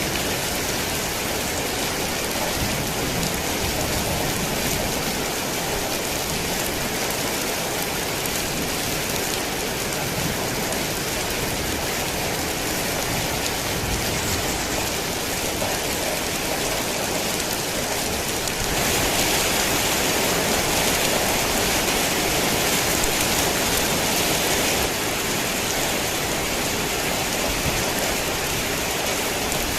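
Heavy rain falling in a steady, dense hiss. About two-thirds of the way through it turns louder and brighter for about six seconds, then drops back suddenly.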